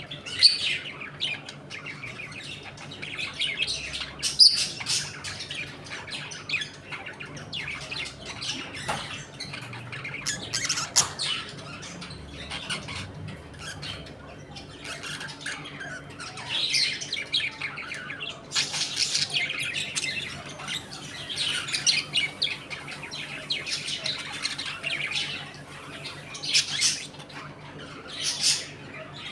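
A colony of budgerigars chattering, chirping and squawking, many birds at once, with louder sharp calls now and then.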